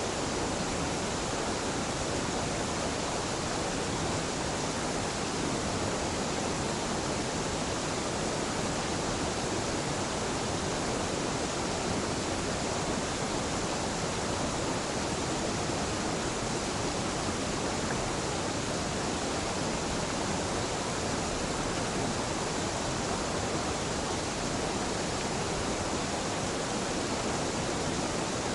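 Waterfall on a mountain river, pouring steadily: a constant, even rush of falling water that never changes.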